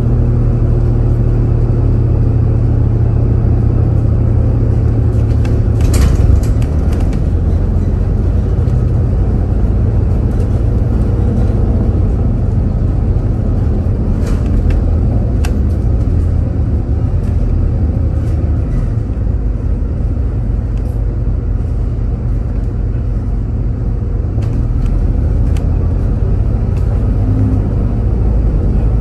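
Train running with a steady low rumble and hum, with a few sharp clicks about six seconds in and again midway.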